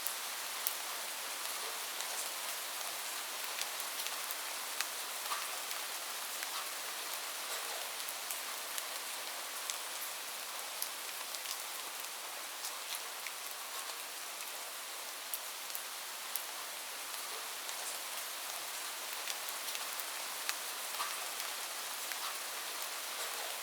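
Steady rain falling, a constant high hiss with individual drops ticking sharply on a surface every second or so.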